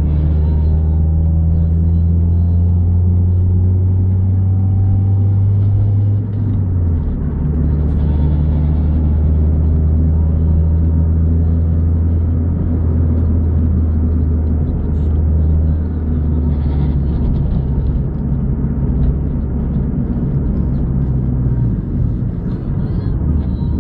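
Honda D16A four-cylinder engine and exhaust heard from inside the car's cabin: a loud, steady low drone whose pitch steps down slightly about six seconds in and again near the end. The owner calls the exhaust system's sound bad.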